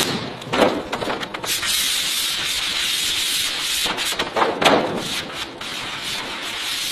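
Sanding on car bodywork: a steady abrasive hiss with a few louder rubbing strokes, about half a second in and again past the middle.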